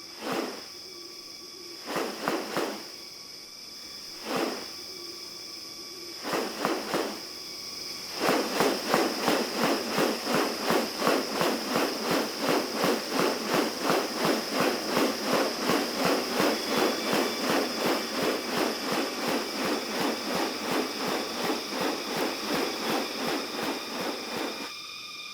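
Steady high-pitched insect drone of tropical rainforest, with a few separate harsh, rasping sounds at first. About eight seconds in, a long, even run of rasping pulses begins, two to three a second, and it stops shortly before the end.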